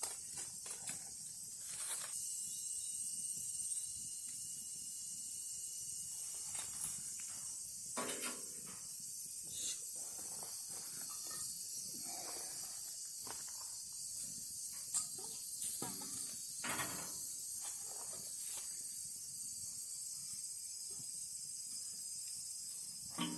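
Outdoor campfire cooking: a steady high hiss runs throughout, with scattered small crackles and clicks and a few louder knocks and rustles from handling the food, around the middle and near the end.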